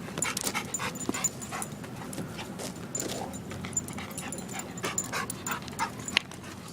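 Dog panting in quick, rapid breaths, winded from running after a fetch toy, with a single sharp click about six seconds in.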